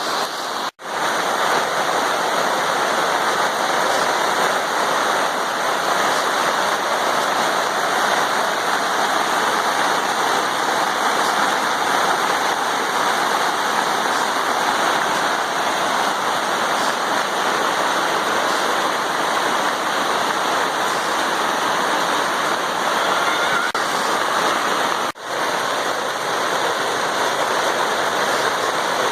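Heavy rain pouring down, with runoff water rushing over the ground; a steady wash of noise that cuts out for an instant about a second in and again near the end.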